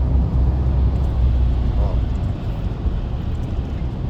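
Car cabin noise while driving on a highway: a steady low rumble of engine and tyres heard from inside the car.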